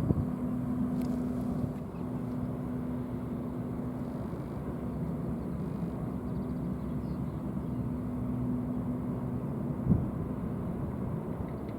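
Steady low mechanical drone of a large ferry's engines, holding one pitch, over a low rumble of wind on the microphone, with a brief thump near the end.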